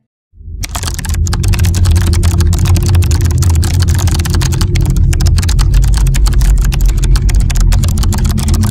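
A typing sound effect: a rapid, uneven stream of key clicks set over a steady low rumble. It starts suddenly just after a brief silence at the start.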